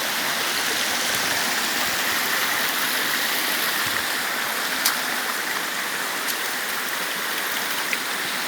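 Steady rush of flowing river water, with a few faint ticks, the clearest about five seconds in.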